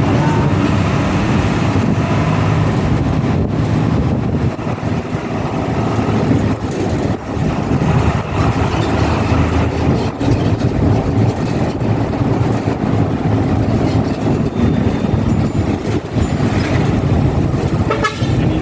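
Steady engine and road noise of a moving bus, heard from inside the cabin.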